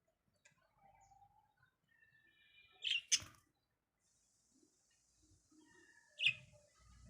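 Budgies chirping and warbling softly, with two sharp, loud squawks about three seconds in and another loud squawk near the end.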